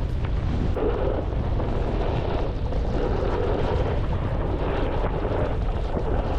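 Strong wind buffeting the camera microphone: a steady, heavy low rumble with a hiss above it.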